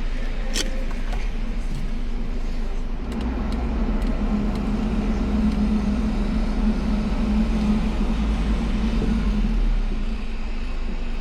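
Car on the move: steady engine and road rumble, with a deeper engine hum that strengthens from about three seconds in and eases off near the end. A single sharp click sounds about half a second in.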